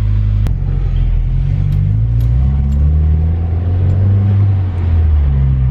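2019 Subaru WRX's turbocharged flat-four running through an Invidia N1 single-exit race exhaust (muffler-less), a low exhaust drone heard inside the cabin, its pitch stepping up and down with engine speed. A sharp click about half a second in.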